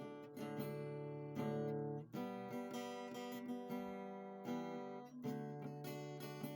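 Background music: acoustic guitar strumming chords, a new strum about every half second.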